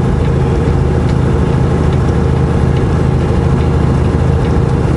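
Semi truck's diesel engine droning steadily under its engine brake, heard from inside the cab, holding the rig back at a slow speed. Faint light ticks sound above the drone.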